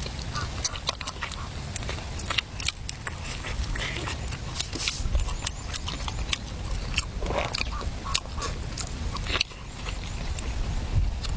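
Someone eating: irregular crunching and chewing, heard as many small clicks.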